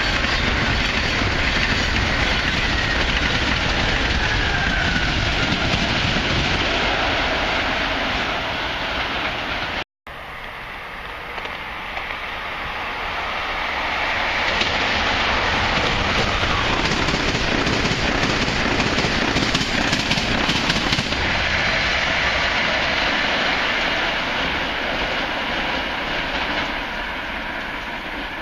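Electric passenger trains running through a station at speed. The first is already rushing past, with a faint whine falling in pitch. After a sudden break, a second train comes closer and grows louder, passes with a run of wheel clicks over the rail joints, and begins to fade.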